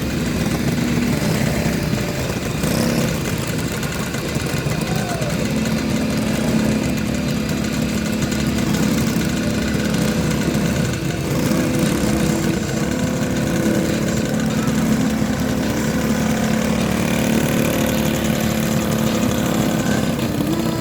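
Several speedway motorcycle engines running together at low, steady revs as the bikes are lined up again for a restart, with small changes in pitch but no hard revving.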